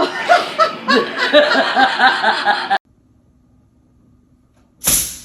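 A person laughing hard in quick repeated bursts, cut off suddenly a little under three seconds in. Near the end a sudden loud noise starts.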